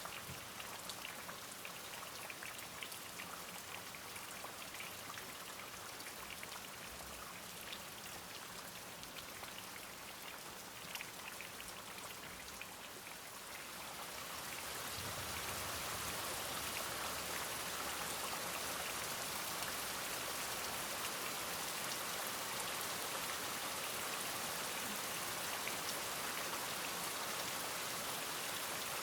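Steady rain falling, with the patter of individual drops, that gets louder and heavier about halfway through.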